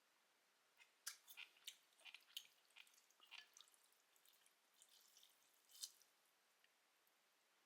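Faint wet clicks and squishes of soft food, a dense run of them lasting about five seconds before it goes quiet.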